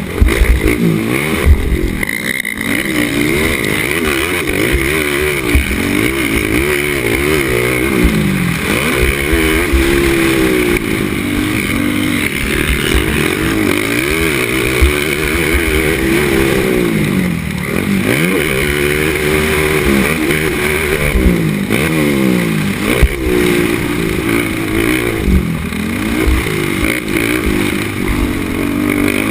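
Racing ATV engine at full race pace, its pitch rising and falling over and over as it revs out and drops back.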